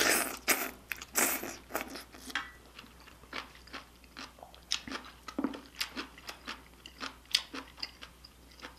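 Close-miked chewing of a mouthful of spicy beef soup with rice: sharp, wet mouth clicks a few times a second, after two louder noisy bursts in the first second and a half.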